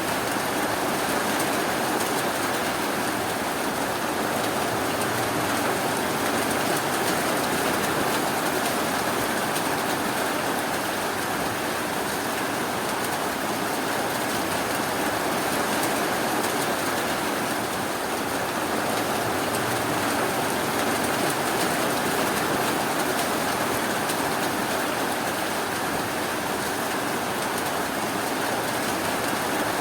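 Steady rainfall, an even hiss of rain with no thunder or other sudden sounds.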